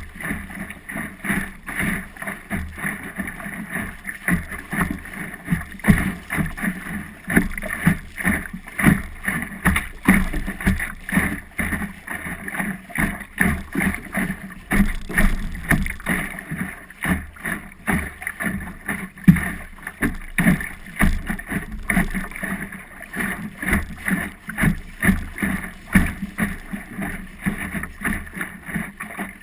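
Water slapping and splashing against the hull of a small Optimist sailing dinghy under way, in quick irregular knocks, with some wind on the microphone.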